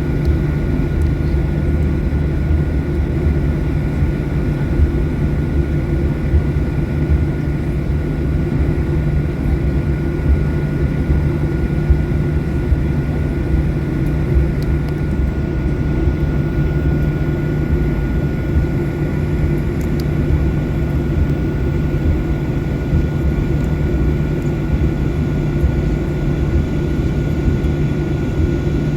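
Steady cabin drone of a Boeing 737-800's CFM56 turbofan engines and airflow, heard from a passenger seat: a deep low rumble with a thin, even whine above it.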